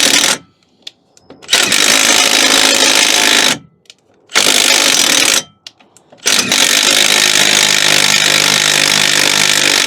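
A power tool runs in three bursts on a rusted, seized brake caliper bolt: about two seconds, then one second, then a longer run of about three and a half seconds. It is driving the bolt in and out to clean the rust off its thread so it will come free.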